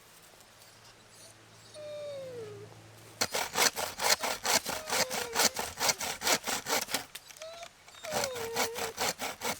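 Hand saw cutting through wood in rapid, even strokes, starting about three seconds in. A dog whines in short falling whimpers now and then.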